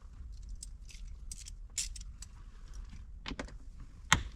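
Irregular light metallic clicks and clinks of a wrench working the 10 mm bolts of a roof grab handle, sparse at first, with a few sharper clicks near the end.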